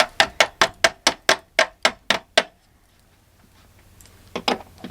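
A quick run of about eleven sharp knocks, roughly four a second, like hammering or banging on the pipe fittings. This is followed by a pause and two or three more knocks near the end.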